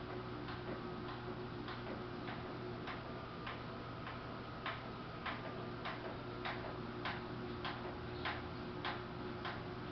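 Samsung VRT WF448 front-loading washing machine running with a steady hum and a sharp, even tick about every 0.6 seconds. The ticks grow louder about halfway through.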